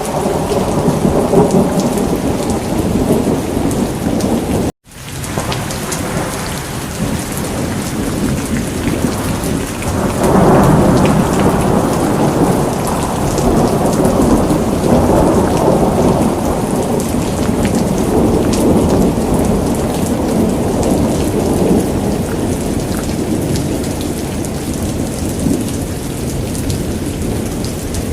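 Steady heavy rain with rolling thunder. The sound cuts out completely for a split second about five seconds in, and a long, louder rumble of thunder swells up about ten seconds in, then slowly fades back into the rain.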